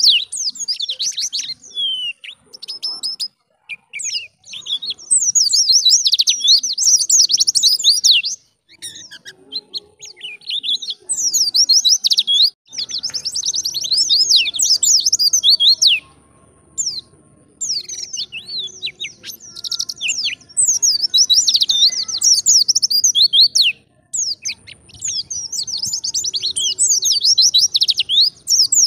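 White-eye (pleci) singing in fast, high-pitched twittering phrases of a few seconds each, separated by short pauses.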